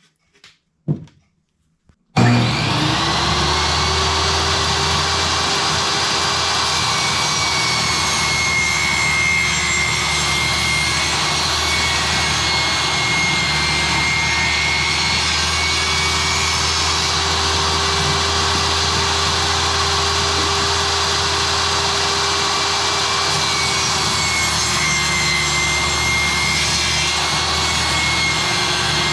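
Electric woodworking power tool starting about two seconds in and then running steadily, a loud continuous whine over motor noise that wavers a little near the end.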